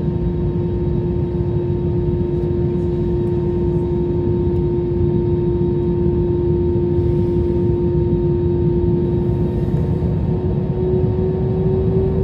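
Jet airliner engines running with a steady hum and low rumble. Near the end the engine tone starts to rise in pitch.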